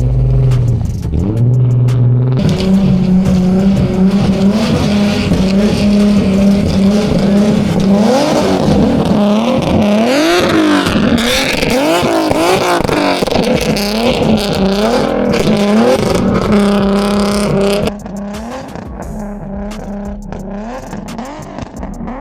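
Car engine run hard at high revs for a snow drift, held at a steady pitch for long stretches, with the revs swinging up and down in the middle. It eases off and gets quieter about 18 seconds in.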